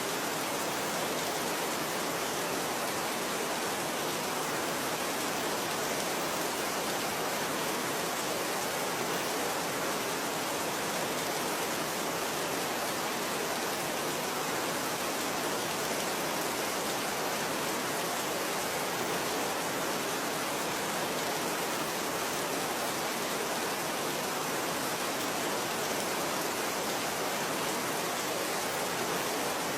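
Steady, even rain noise, a dense hiss with no single drops standing out.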